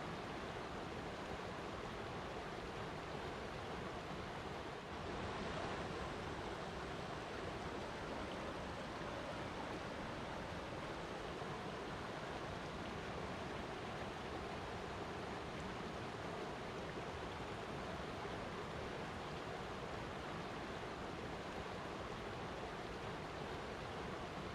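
Flowing water rushing steadily, with a brief dip in level about five seconds in.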